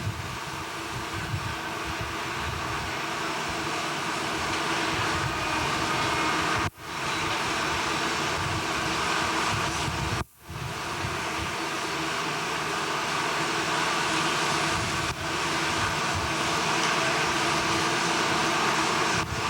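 Steady industrial machinery noise with a few held hum tones. It drops out sharply and briefly twice.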